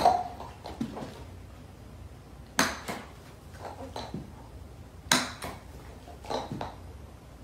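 Light knocks and clatters, coming in pairs about every two and a half seconds, over a quiet room background.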